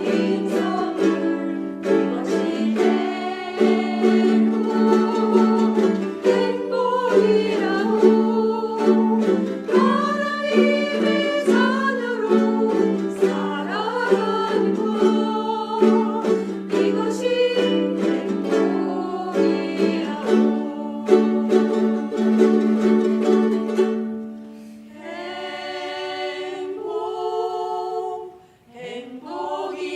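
Ukulele ensemble strumming chords while a group sings along. Near the end the strumming stops and the voices hold a long chord, then break off briefly before singing again.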